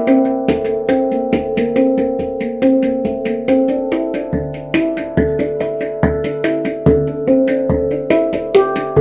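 Handpan played by hand: overlapping ringing metallic notes struck several times a second, with deep bass tones at intervals.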